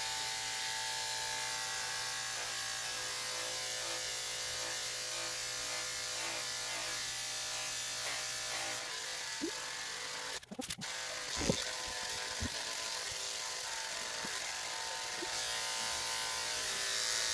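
Electric dog grooming clippers running with a steady buzz, their sound dipping briefly about ten seconds in before carrying on.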